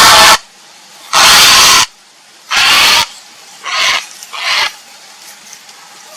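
Grey heron giving a series of harsh, rasping calls, about one a second. The last two are shorter and fainter, and then the calling stops.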